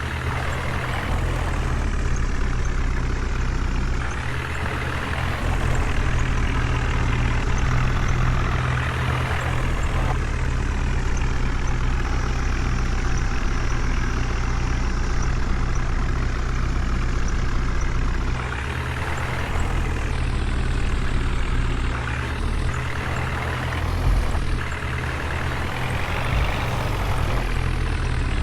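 Heavy diesel vehicle engine running steadily, its revs rising and falling several times.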